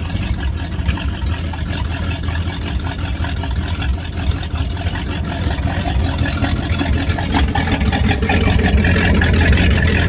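Volvo Penta 5.7 small-block V8 boat engine running through a Corsa Captain's Call exhaust, with a deep, steady exhaust note that grows gradually louder over the last few seconds.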